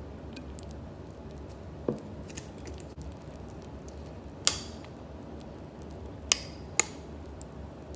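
Tableware clinking against itself: a few sharp clinks that ring briefly, the loudest about four and a half seconds in and two close together near the end. A steady low hum sits underneath.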